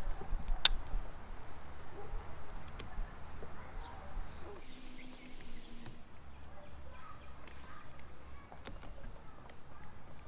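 A bird giving a few short, high, falling calls over a low, steady background, with a sharp click about half a second in and a few fainter clicks after it.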